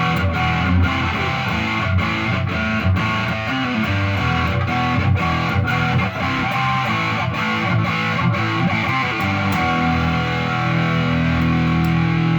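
Distorted electric guitar: a Mexican-made Fender Telecaster with a Seymour Duncan Hot Rails pickup in the bridge position, played through an amp with the distortion engaged. Strummed and picked chords give way to one held, sustaining chord near the end.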